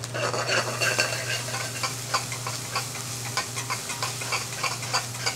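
Onions and ginger-garlic paste sizzling in hot oil in a metal pan while a metal spoon stirs them, scraping and clicking against the pan many times. The paste is being fried to cook off its rawness.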